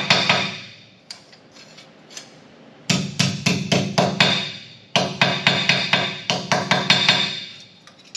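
Rapid hammer blows on a small sheet-metal patch panel, about five a second, each one ringing. The blows come in runs of about ten, with short pauses, as the pinched piece is straightened and shaped.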